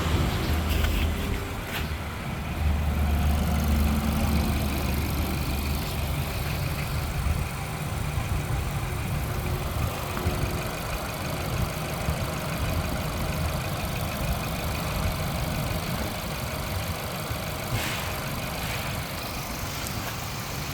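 Volkswagen engine running on a test run, a little louder for about two seconds near the start, then settling to a steady idle.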